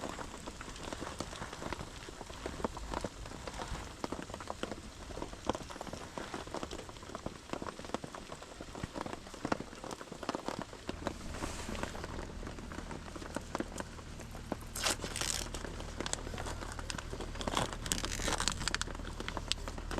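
Rain pattering with a dense crackle of small ticks throughout; a steady low rumble joins about halfway through, and short rustling bursts come about 15 and 18 seconds in.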